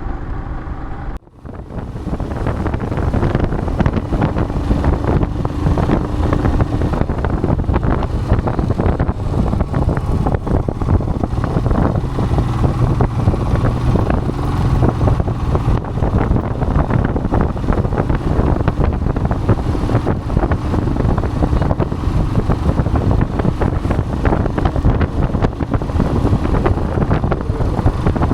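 Wind buffeting the microphone of a moving motorcycle, with the Royal Enfield Himalayan's engine running steadily underneath. The sound cuts out briefly about a second in, then the steady rush resumes.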